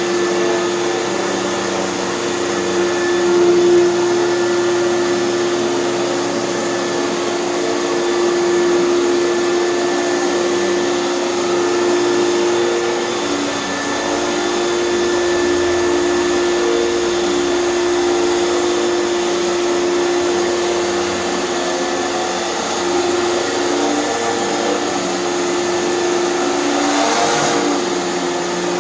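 Hoover canister vacuum cleaner running steadily, its motor giving a constant hum with a steady whine.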